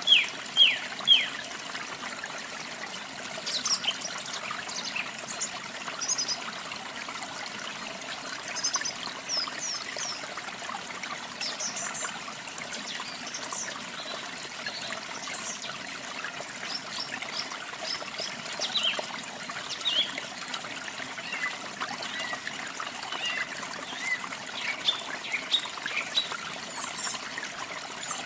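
Running water trickling steadily, with small songbirds chirping on and off throughout. A few loud, quick, downward-sweeping chirps come in the first second.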